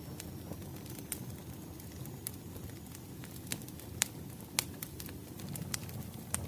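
Wood fire burning: a steady low rumble with irregular sharp crackles and pops, the loudest a few seconds in.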